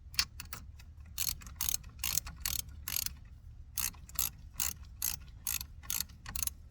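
Hand ratchet wrench clicking as battery terminal nuts are snugged up: a short burst of ratchet clicks on each back-swing, about two a second, with a brief pause about halfway through.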